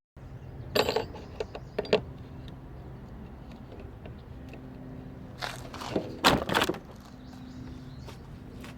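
Several sharp knocks and clatters, the loudest a noisy rattling lasting about a second around the middle, over a steady low hum.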